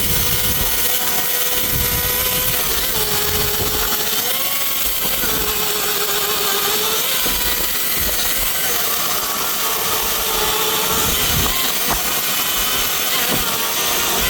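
Battery-powered chainsaw running at full speed while cutting through a tree limb. Its whine sags and recovers several times as the chain loads up in the wood.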